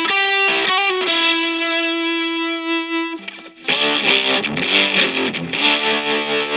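Electric guitar played through a Fender Santa Ana Overdrive pedal with a driven tone. A few quick notes lead into one note held for about two seconds. After a brief gap, busier playing of several notes at once resumes.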